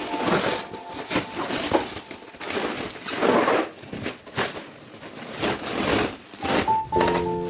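Plastic wrapping of a memory foam mattress crinkling and rustling in irregular bursts as it is handled and pulled open.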